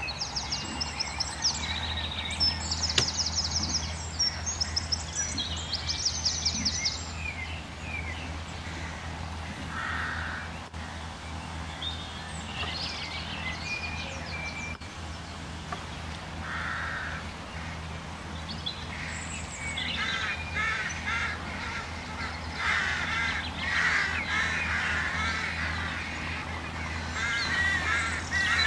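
Wild birds calling: quick high chirps in the first several seconds, then scattered harsh caws, and a busier run of calls over the last third, over a steady low hum.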